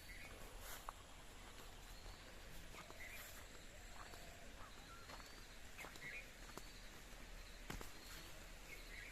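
Faint forest birdsong: a short call repeating every second and a half or so, with thin rising chirps higher up. A few sharp clicks fall among the calls, the loudest about eight seconds in.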